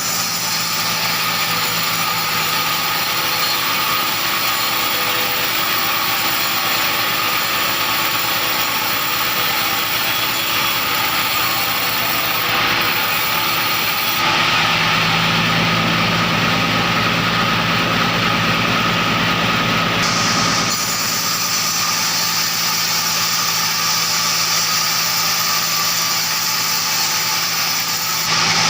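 Engine-driven sawmill machinery running steadily. Its tone shifts abruptly about halfway through and again a few seconds later.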